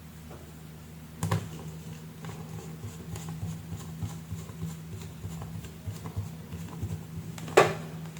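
Steady low hum with scattered light ticks and two sharper knocks, one about a second in and a louder one near the end.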